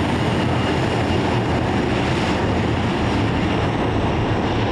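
Jet airliner engines running loud and steady: a continuous deep rushing noise with a faint high whine above it.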